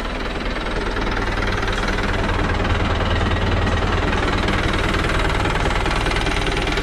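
New Holland 65-56 tractor's diesel engine running steadily, with a clattering knock.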